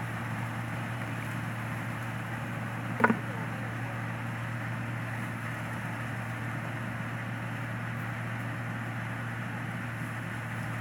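An engine running steadily with a constant low hum. One short, sharp knock about three seconds in.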